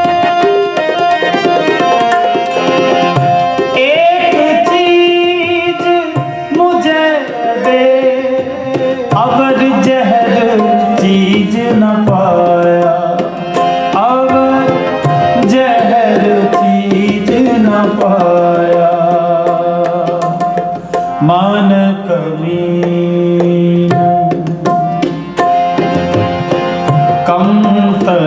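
Sikh kirtan: tabla and harmonium accompanying a singer's long, gliding vocal line with no clear words, over steadily held harmonium notes.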